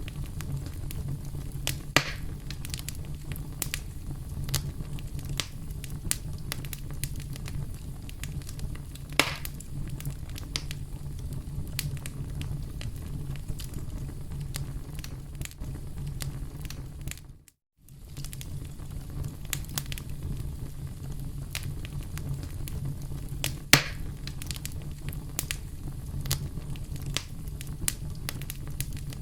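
Campfire crackling, with a steady low rumble under many small snaps and a few louder sharp pops, the loudest near the end. The sound cuts out completely for a moment a little past halfway.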